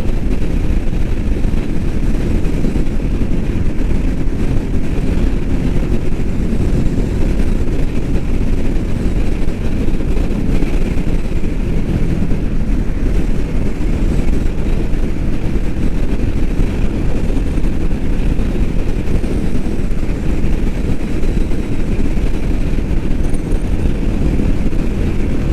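Royal Enfield Meteor 350's single-cylinder engine running at steady highway cruising speed, mixed with a loud, unchanging rush of wind noise.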